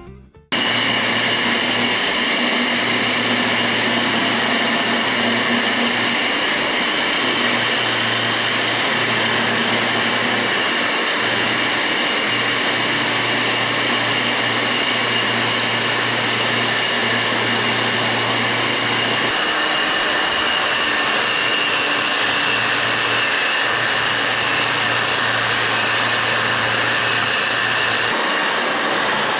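Electric core drill running steadily with a high motor whine and a low hum that comes and goes as it bores through a concrete wall. It starts abruptly about half a second in.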